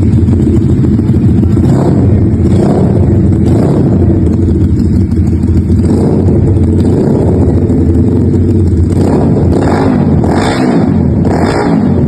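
Morbidelli C252V's V-twin running through a custom exhaust, idling with short throttle blips: three spaced revs early on, then a quicker run of four from about nine seconds in.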